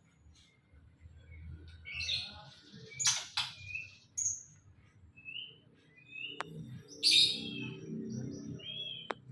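Songbirds calling: short chirps and harsh chattering bursts, with a few brief clear whistled notes between them.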